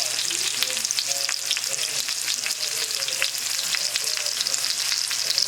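Food frying in a pan: a steady sizzle full of small crackling pops, with a low steady hum underneath.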